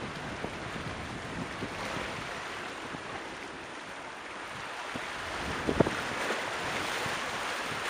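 Sea surf washing over a rocky shore, with wind buffeting the microphone; a single sharp knock a little before six seconds in.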